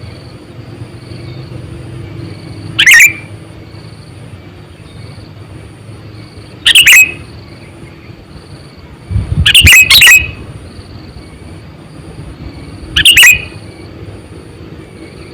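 Sooty-headed bulbul (kutilang) giving short, loud calls about every three to four seconds, with two close together about two-thirds of the way through.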